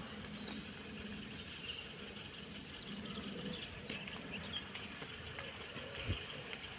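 Quiet outdoor background: a steady low hiss with a few faint, short high-pitched chirps and occasional light clicks.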